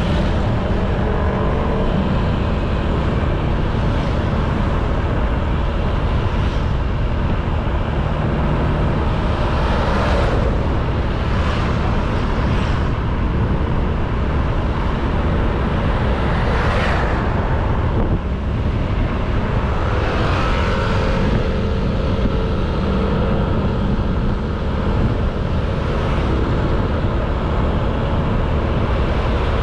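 Honda Beat 110cc scooter's small single-cylinder engine running while riding, under heavy wind rumble on the camera microphone. Other traffic whooshes past several times, about ten seconds in, again around seventeen seconds and near twenty seconds.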